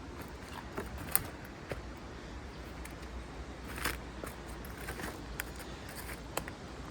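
Footsteps on the forest floor: scattered light crackles and twig snaps, with a sharp snap about a second in and a louder crackle near the middle.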